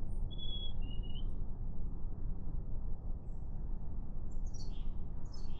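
A songbird calling: a thin whistled note held for about a second near the start, dropping slightly in pitch, then a few short high chirps near the end. A steady low rumble runs underneath.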